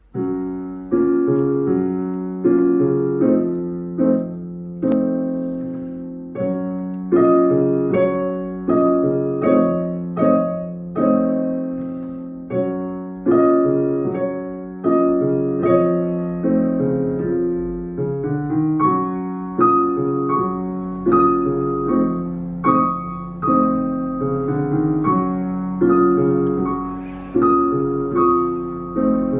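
Piano played four hands: chords and notes struck about once a second, each fading before the next, over a low note held steadily underneath.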